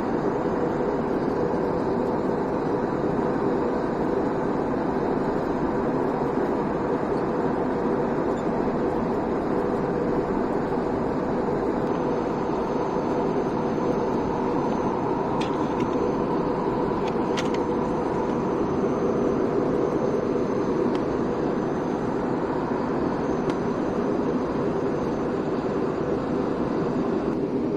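Steady airliner cabin noise from engines and airflow, with a low hum throughout. A faint high whine comes in about halfway through, and a few light clicks follow a few seconds later.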